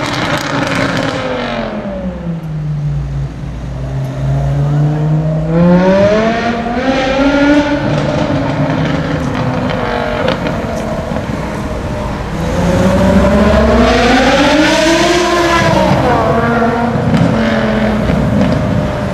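BMW M6's V10 engine through a custom exhaust, pulling away: loud, its pitch falling, then climbing about five seconds in, and rising and falling again in the second half as the revs go up and down through the gears.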